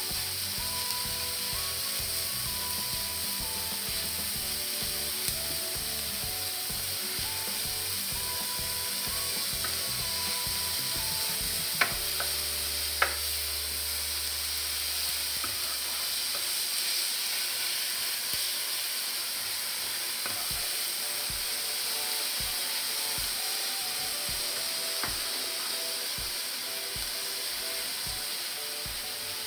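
Minced pork and diced onion sizzling on a hot electric griddle while being stirred and scraped with spatulas. Two sharp clicks about twelve and thirteen seconds in.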